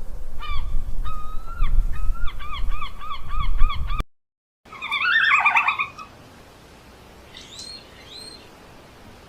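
Repeated bird calls: a series of short pitched notes that quicken to about four a second. A brief gap follows, then a louder jumble of calls, and a few faint high calls near the end.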